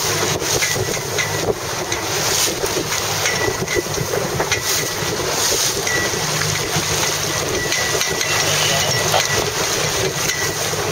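Steady wind buffeting the microphone, with water rushing against a small boat's hull underneath.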